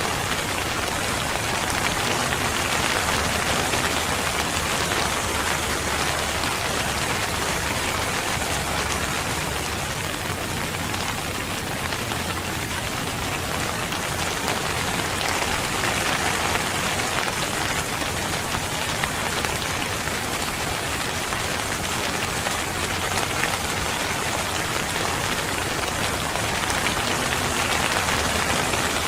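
Steady rain falling: a dense, even hiss of raindrops that holds at a constant level.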